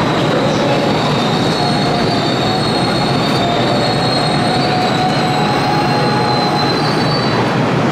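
Electric commuter train moving at a station platform, its wheels giving a high, wavering squeal over loud, steady running noise; the squeal fades out near the end.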